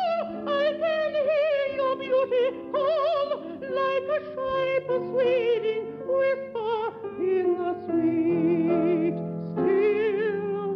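Light-classical love song sung in operatic style by a high voice with wide vibrato, over held instrumental accompaniment notes.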